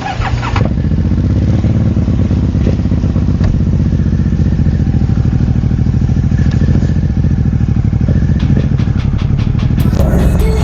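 Motorcycle engine running steadily with a low, even rumble. Near the end a fast, regular ticking comes in on top.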